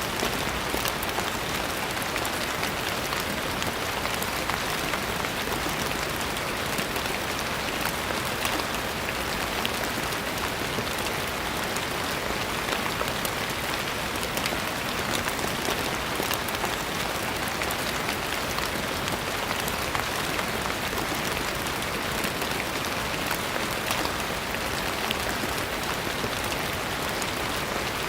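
Steady rain falling on a surface, an even hiss of many drops with fine individual patters throughout.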